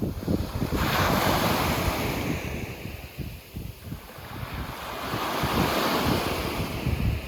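Sea waves breaking and washing up the beach, two surges of surf a few seconds apart, with wind buffeting the microphone throughout.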